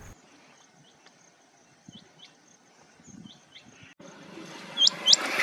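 Quiet outdoor ambience with a few faint, short high bird chirps, then near the end a male rain quail calls: two loud, sharp rising whistled notes in quick succession.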